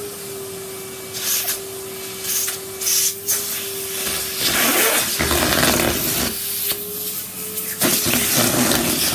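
Henry canister vacuum cleaner running, its motor giving a steady whine. Several louder rushes of suction noise come and go as the nozzle is worked over the carpet and picks up debris.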